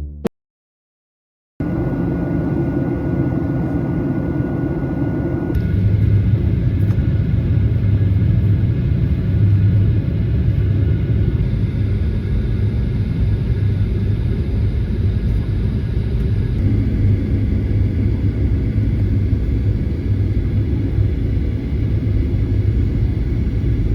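Steady low rumble of an airliner heard from inside the cabin, starting after a second of silence; a faint steady tone in it stops about five seconds in.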